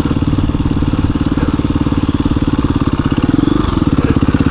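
KTM 350 EXC-F dirt bike's single-cylinder four-stroke engine idling with an even, rapid pulse, rising briefly a little after three seconds in.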